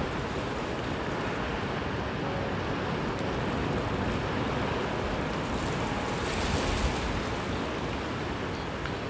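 Ocean surf washing on the shore, with wind rumbling on the microphone. The surf swells a little louder about two-thirds of the way through.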